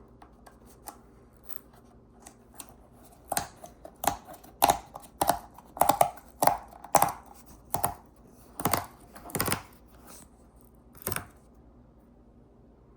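Handling noise: a hand rubbing, scraping and knocking right against the microphone in an irregular string of a dozen or so sharp scrapes, with the loudest ones in the middle. They stop a couple of seconds before the end.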